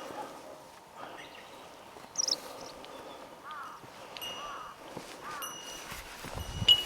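Bird calls: a high chirp about two seconds in, then three short arching notes about a second apart. A small bell rings faintly now and then, and a few low thuds come near the end.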